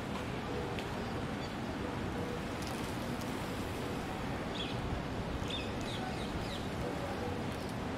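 A parrot giving a few short, high chirps, one about halfway through and a quick cluster a second later, over a steady background hiss.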